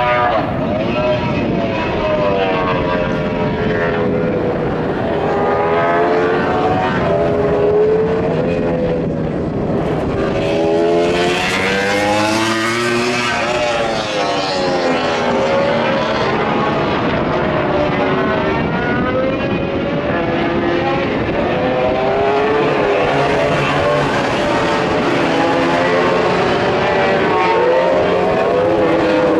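MotoGP racing motorcycles on track, engines revving up and down through the gears as several bikes pass, their pitches overlapping and sweeping. The engine noise runs loud throughout.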